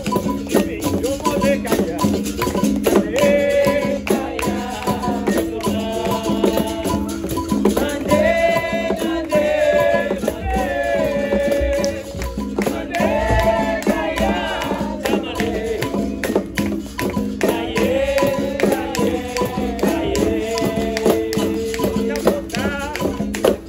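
Live capoeira roda music: berimbau with a shaken caxixi rattle and other percussion keep a steady rhythm while voices sing in phrases with short gaps between them.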